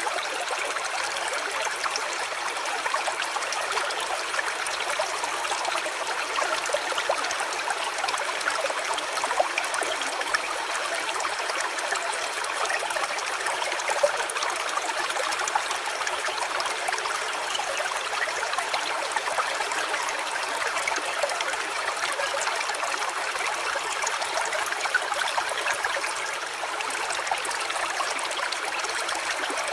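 Shallow stream running steadily over stones, an even trickling rush of water.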